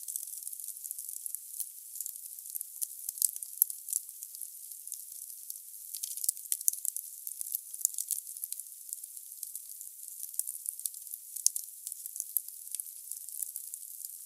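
Firewood burning in a fireplace: dense, irregular crackling with sharp pops over a steady hiss. The sound is thin and high, with no low rumble.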